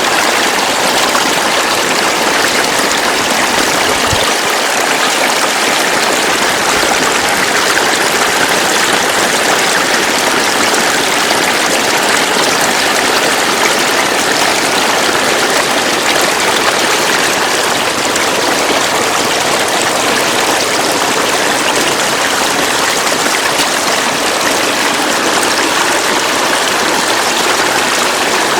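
Floodwater flowing steadily, a continuous rushing of running water.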